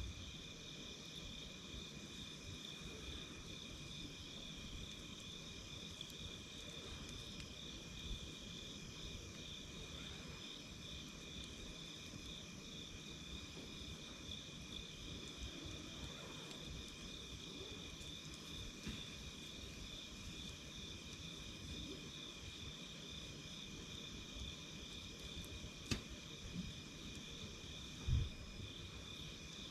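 A steady, high, pulsing chorus of night insects over the low crackle of a wood campfire, with a couple of sharper pops from the fire near the end.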